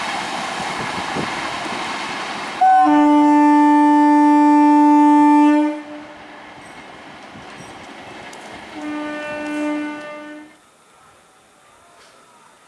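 Indian Railways express train rushing past, then its locomotive horn sounds one long loud blast of about three seconds. A few seconds later a second, shorter and fainter blast comes in a few pulses, and the train noise fades away.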